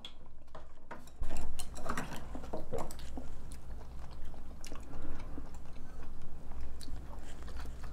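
People eating: chewing and other mouth sounds, with short sharp clicks of chopsticks against ceramic bowls, louder from about a second in.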